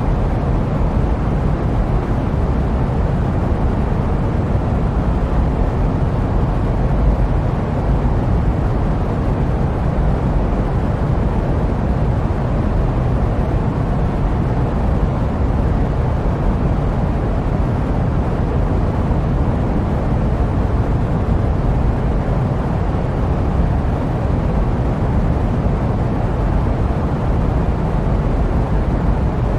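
Steady jet airliner cabin noise in flight: a constant low rumble with no tones or changes.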